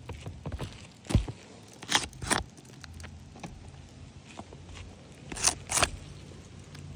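Footsteps scuffing on a roof: a few separate steps, a pair around two seconds in and another pair near the end, over a low steady hum.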